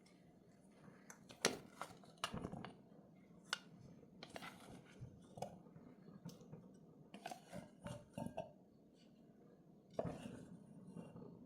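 Tableware handled: scattered clinks and scrapes of utensils against dishes, a dozen or so short sharp sounds with a few louder ones about a second and a half in and near the end.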